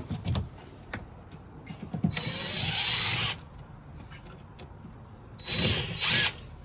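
A handheld power tool running in two short bursts, one of a little over a second and one of under a second, with scattered clicks and knocks of tool work in between.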